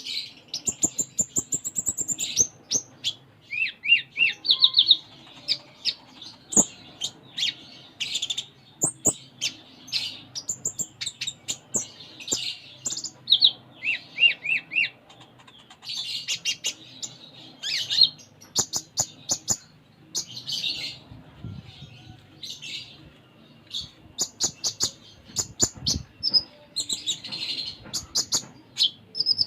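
Olive-backed sunbird (kolibri ninja) singing continuously: rapid runs of short high chirps, trills and quick falling notes, a varied song full of fill-in phrases.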